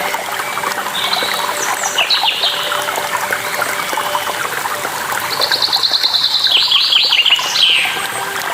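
A small songbird sings fast trilled phrases with quick down-slurred notes, once about a second in and again from about five seconds in until near the end. Beneath it, water trickles and babbles continuously.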